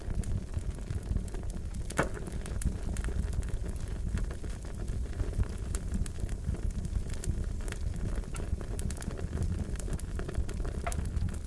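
Wood fire crackling: a steady low rumble of burning with scattered sharp pops and snaps, one louder pop about two seconds in.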